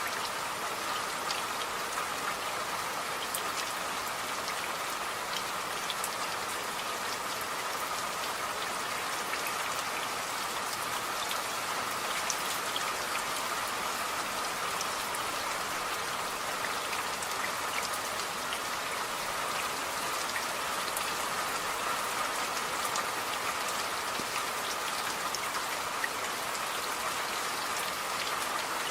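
Steady rain falling, an even hiss dotted with many small ticks of individual drops.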